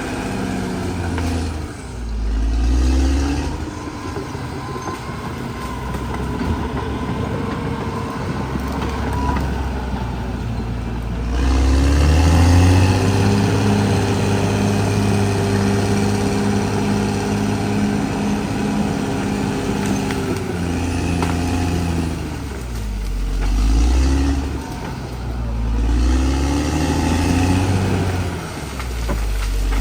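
CAT D6R XL bulldozer's diesel engine running hard, its engine speed dropping and climbing back several times, with a long steady stretch at high revs in the middle.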